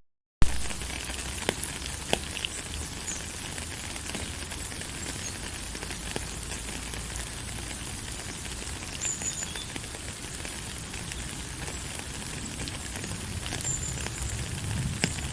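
Steady rain falling, an even hiss with scattered drops ticking. Just after the start the sound cuts out for a split second and comes back with a sharp click.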